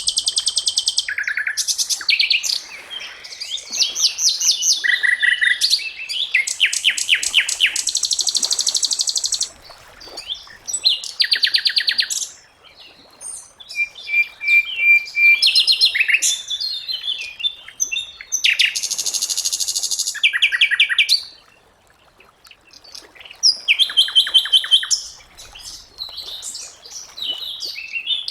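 Sikatan londo singing: bursts of fast, high-pitched trills and chattering phrases, each lasting one to three seconds, with short pauses between them.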